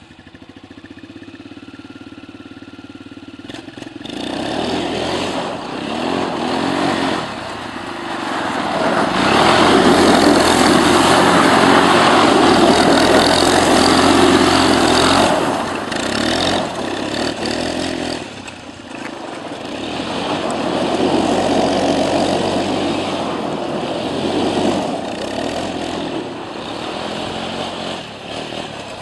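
ATV quad bike engine revving up and easing off again and again while drifting. It starts quieter, grows loud about four seconds in and is loudest through the middle. It drops briefly about two-thirds of the way through, then revs up again.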